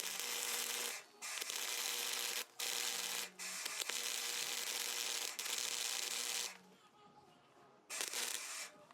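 Wire-feed welder arcing as a bead is laid: a loud, steady hissing crackle with a low hum under it, in several long runs broken by short pauses. It stops about six and a half seconds in, and one more short burst comes near the end.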